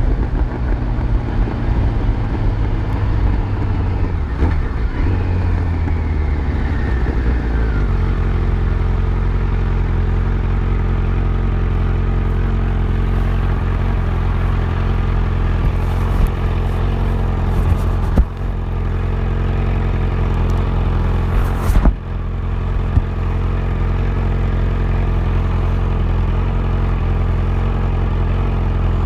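Yamaha FZ1's inline-four engine with its revs falling over the first several seconds as the bike slows, then idling steadily. Two short sharp knocks come about eighteen and twenty-two seconds in.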